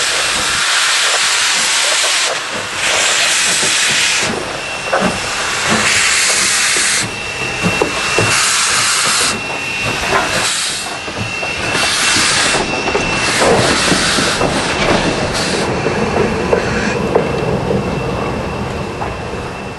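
Ex-Canadian National 0-6-0 steam locomotive running light, loud steam hiss swelling and dropping every second or two.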